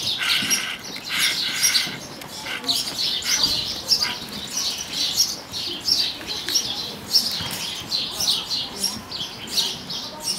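Small birds chirping repeatedly, several short high chirps a second, with a few longer held notes in the first couple of seconds.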